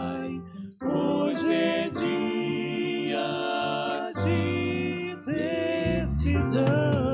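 Vocal quartet singing a gospel song in multi-part harmony, with a brief break about half a second in.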